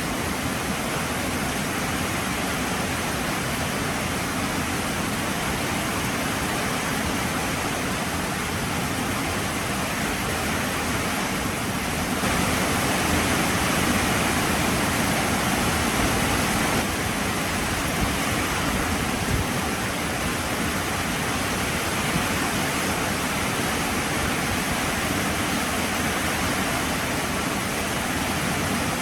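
Heavy rain falling steadily, an even dense hiss that swells a little louder for a few seconds midway.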